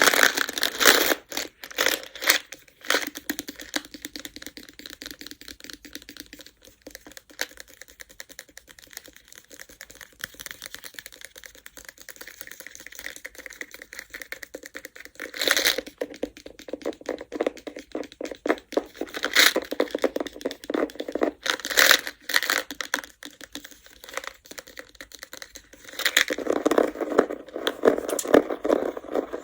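Go stones clicking and rattling against each other, a fast run of small clicks with several louder clattering bursts and a denser stretch near the end.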